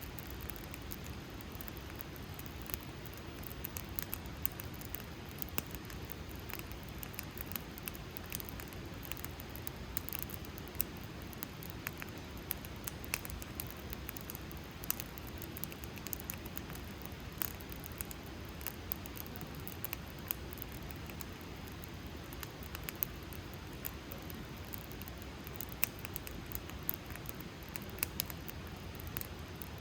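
Wood campfire burning: a steady low rush of flame with frequent, irregular sharp crackles and pops.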